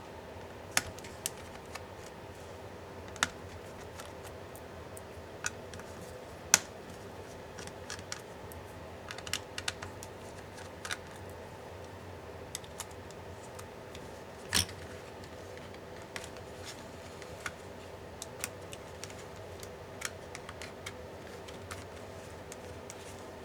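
Irregular sharp clicks and taps of small tools and parts against a laptop's case and internals during disassembly, the loudest about six seconds in, over a steady faint hum.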